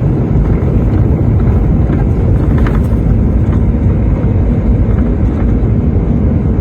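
Steady low engine and road rumble heard from inside a moving truck's cab while driving on a snow-covered highway.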